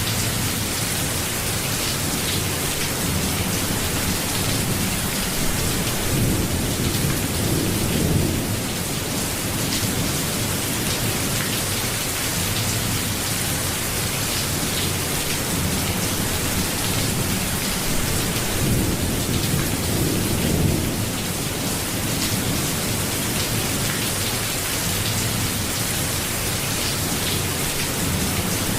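Steady rain falling, an even hiss throughout, with two low rolling rumbles of thunder swelling and fading, one about a quarter of the way in and one about two-thirds through.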